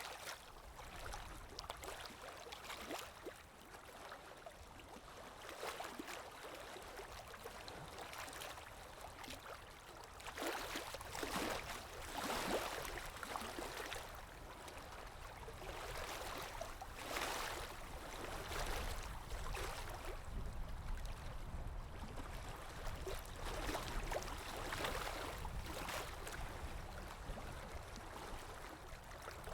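Ambient recording of water lapping against a shore or hull, with wind blowing underneath; the lapping comes in irregular swells every few seconds over a steady low rumble.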